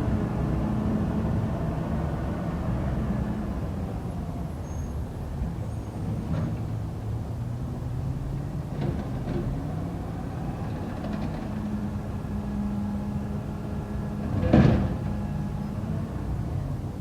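Garbage truck engine running steadily, with a few light clicks and one sharp knock near the end.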